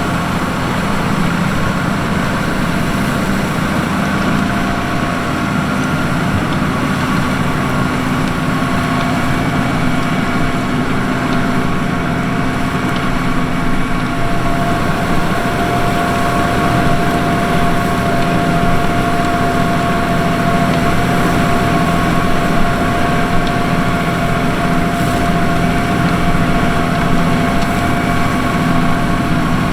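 New Holland T7.245 tractor's 6.7-litre six-cylinder NEF engine running steadily while pulling a plough. A higher whine over the engine note grows a little stronger about halfway through.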